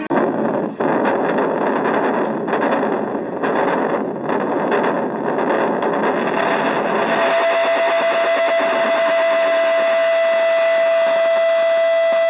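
Guitar effects pedal putting out a harsh, noisy distorted sound for about seven seconds, which then settles into a single steady pitched tone with overtones that holds on.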